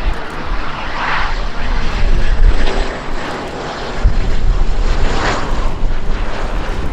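A fixed-wing airplane's engines running as it passes, a loud, steady noise with a deep rumble that swells briefly about a second in and again near five seconds in.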